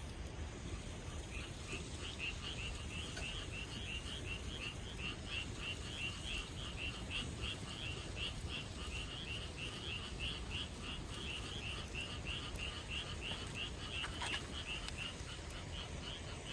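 Frogs calling in chorus, with quick, evenly repeated high croaks about three a second that start about a second in. A steady low rumble of background noise runs beneath them.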